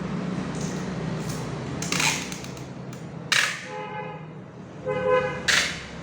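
Three sharp, loud bangs, about two, three and five and a half seconds in, from wooden-crate packing work, over a steady low hum. Between the later bangs come two short pitched tones.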